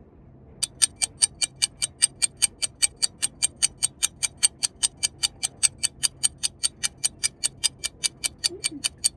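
Rapid, very even clicking, about five or six sharp ticks a second, starting under a second in and stopping near the end.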